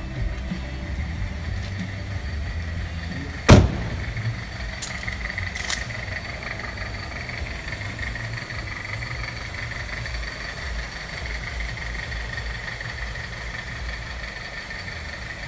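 2007 Dodge Caliber's engine idling with a steady low rumble, which the owner says is still running rough. A car door shuts with a single loud slam about three and a half seconds in, followed by a couple of faint clicks.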